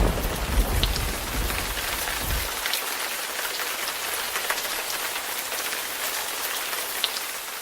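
Steady rain falling, an even hiss with scattered drop ticks. A low rumble of thunder dies away over the first two and a half seconds.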